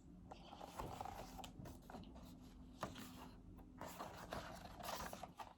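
Faint rustling and scraping of paper, as a picture book's pages are handled and turned.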